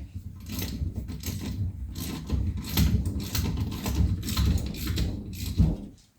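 Tightening nuts on a coil-spring strut assembly: continuous mechanical ratcheting and rattling of the tool on the hardware, which stops shortly before the end.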